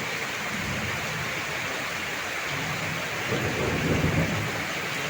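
Heavy rain pouring steadily, with a low rumble of thunder building about two and a half seconds in and loudest near four seconds.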